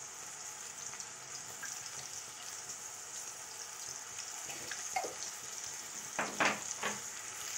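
Onion-tomato masala sizzling steadily in hot mustard oil in a kadhai while it is stirred with a spoon, with a few short scrapes of the spoon against the pan near the end.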